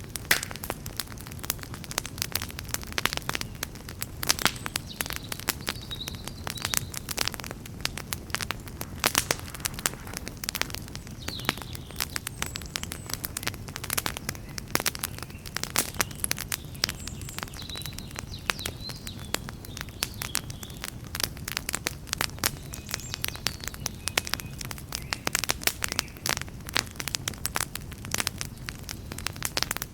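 Campfire crackling, with many irregular sharp pops and snaps of varying loudness over a steady low rumble of the flames.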